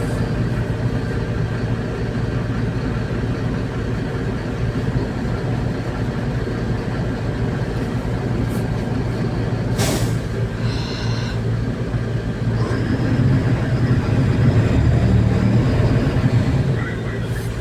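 Engine and drivetrain drone of a MAZ-203 city bus in motion, heard from inside the cabin. A sharp click comes about ten seconds in with a brief high whine, and the engine gets louder for a few seconds near the end.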